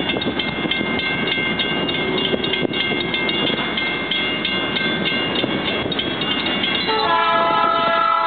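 Diesel-hauled excursion train rolling away, with a high steady ringing tone over the running noise. About seven seconds in, the locomotive horn starts a long blast that is still sounding at the end.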